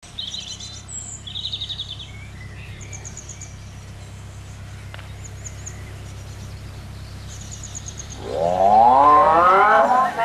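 Small birds chirping and trilling in short bursts over a steady low rumble. About eight seconds in, a loud pitched sound with a rising glide comes in, leading into music.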